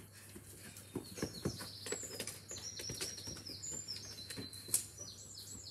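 A garden bird singing a rapid run of short, high chirps. Scattered knocks and scuffs come from feet and a football being kicked on grass, the sharpest knock near the end.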